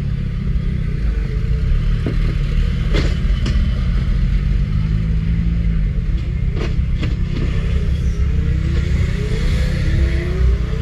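Motor vehicle engine running with a heavy low rumble and a few sharp knocks, its pitch rising near the end as it speeds up.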